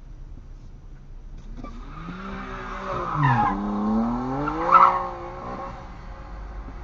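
Car engine revving, its pitch falling to a low point about three and a half seconds in and then climbing again, with two short bursts of tyre squeal, the louder one near five seconds in.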